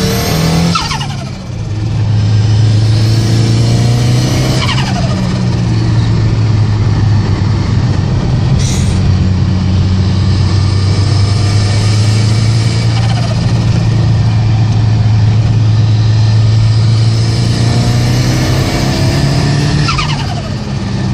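Ford Sierra Cosworth 4x4's turbocharged four-cylinder engine running at steady revs. A falling whistle comes near the start, another about four seconds in, and one near the end, with revs rising again just before the end.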